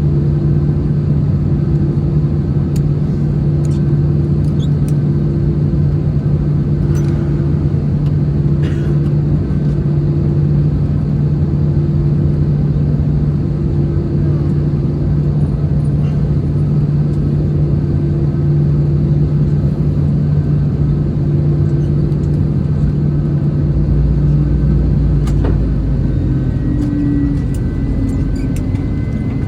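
Cabin noise inside an Airbus A321-200 with its CFM56 engines running: a steady hum over a low rumble. About 24 s in the rumble deepens and the hum changes, and a faint high tone comes in near the end.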